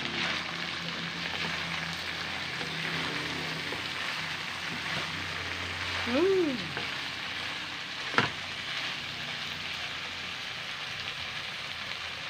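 Igado sizzling steadily in a steel wok as a wooden spatula stirs it. A brief rising-and-falling whine comes about six seconds in, and a single sharp knock about two seconds later.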